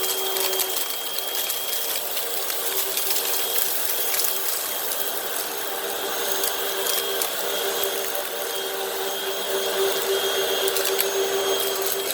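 Hoover WindTunnel High Capacity Pet upright vacuum running over a textured rug, its brush roll picking up a heavy spread of cat litter and dirt: a steady motor whine under a constant scatter of crackling grit.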